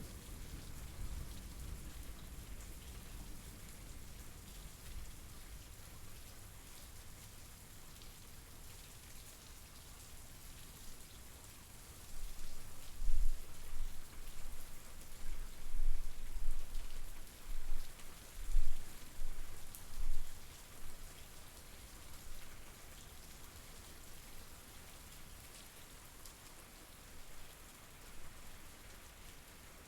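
Steady rain falling and pattering on surfaces. From about twelve seconds in, a series of low rumbling surges rises over it for several seconds, the loudest part, then dies back to the rain alone.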